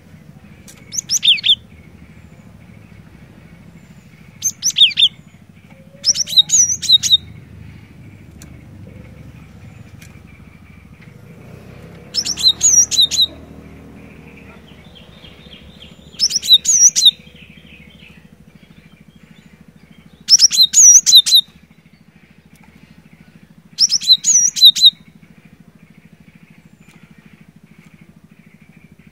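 Cinereous tit singing: seven short bursts of rapid, high repeated notes, each under a second, a few seconds apart, over a faint low steady hum.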